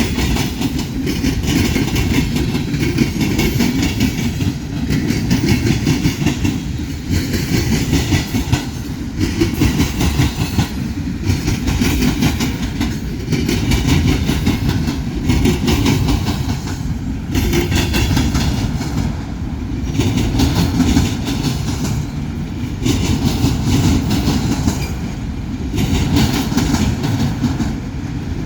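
Freight train cars rolling past at close range. There is a steady rumble of wheels on the rails, with a clatter that swells every second or two.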